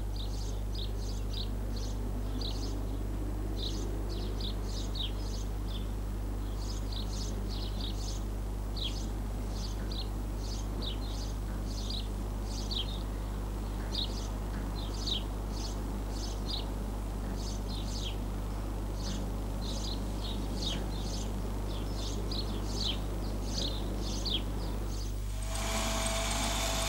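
Small birds chirping, short high notes two or three a second in irregular runs, over a steady hiss and low hum. Near the end a louder steady whirring noise with a held tone takes over.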